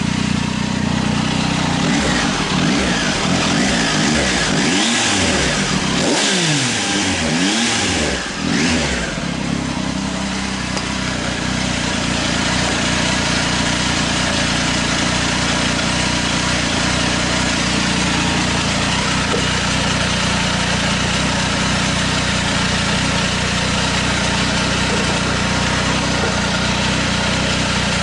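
A 2019 Triumph Tiger 800 XRT's inline three-cylinder engine running warm through a Fuel Diablo carbon slip-on muffler with its baffle fitted. The throttle is blipped several times in quick succession in the first nine seconds or so, then it settles to a steady idle.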